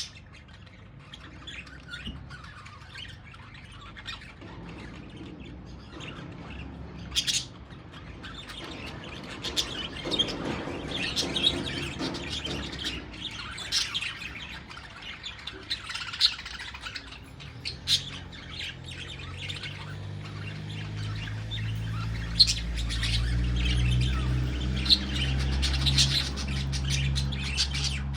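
A flock of budgerigars chattering, with frequent short squawks and chirps. A low hum comes in and grows louder over the second half.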